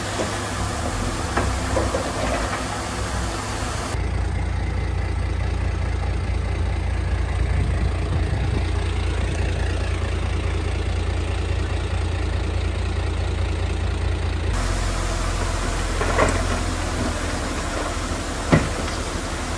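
Heavy diesel engine of earthmoving machinery running steadily at a low pitch, with two short sharp metallic knocks in the last few seconds.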